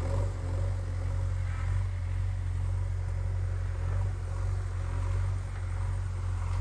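JCB 3DX backhoe loader's diesel engine running steadily, a low drone that swells and eases slightly.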